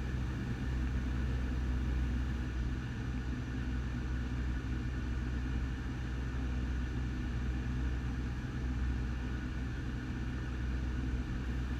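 Cessna 172's piston engine and propeller running steadily on the approach descent, a constant low drone heard inside the cabin.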